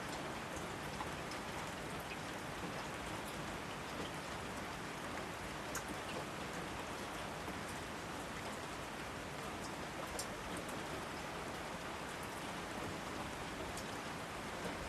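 Steady rainfall, an even hiss with scattered distinct drops ticking on nearby surfaces.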